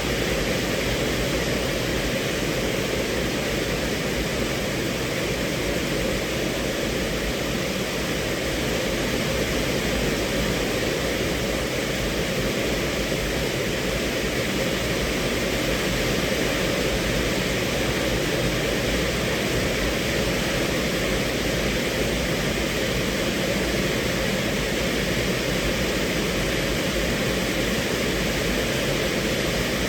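Steady rain on a car's roof and windows, heard from inside the cabin: an even, unbroken hiss.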